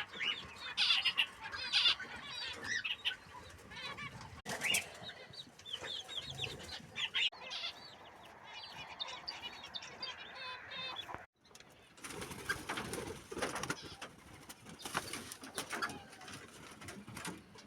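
Kept birds in their pens, a mix of small songbirds and pigeons. Rapid high chirps and calls come over the sound of wings flapping. The sound drops out briefly partway through; after that, wing flapping and rustling with scattered calls take over.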